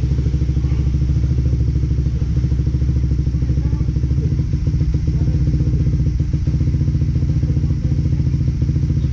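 Suzuki Raider 150 Fi single-cylinder motorcycle engine idling steadily, with a rapid, even exhaust pulse and no revving.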